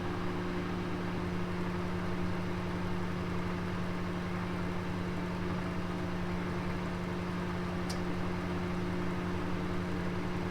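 Oven running with a roast inside: a steady low hum under an even hiss, with one faint tick about eight seconds in.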